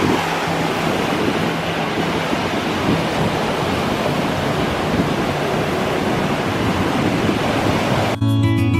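Steady rush of surf on a beach. Near the end it cuts off abruptly and acoustic guitar music begins.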